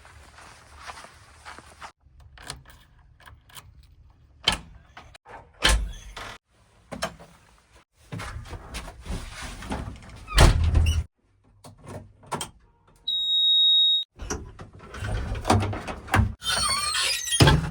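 Backhoe loader at work: engine rumble with knocks and squeals from the arm and bucket, broken into several short stretches, with a steady high tone for about a second past the middle.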